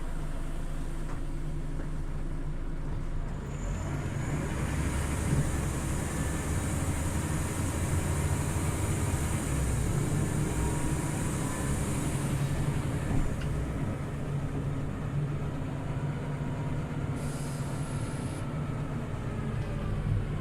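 Scania OmniLink CL94UB city bus driving, heard from inside the cabin: a steady engine drone with a rising drivetrain whine as it picks up speed, twice, and a brief hiss near the end.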